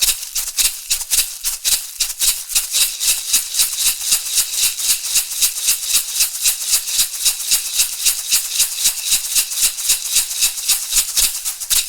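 Shamanic ceremonial rattle shaken in a fast, steady rhythm, about five crisp, hissy shakes a second.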